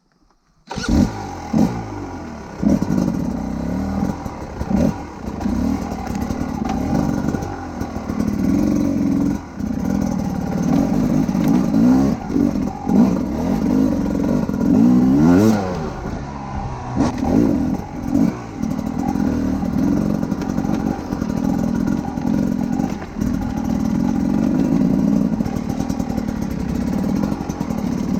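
Enduro motorcycle engine starting up about a second in, then running with repeated throttle blips that rise and fall in pitch.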